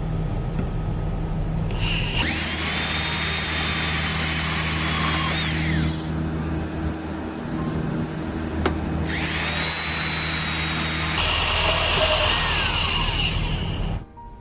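Power drill driving screws into wood, run twice for about four seconds each, its whine rising as it spins up and falling away as it stops.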